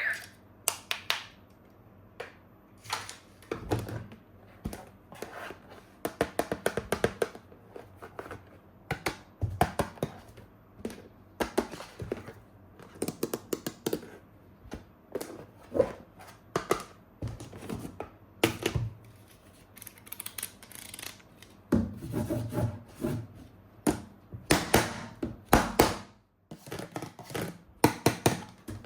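Hard plastic toy-gun parts being handled: irregular clicks, taps and knocks, some in quick rattling clusters.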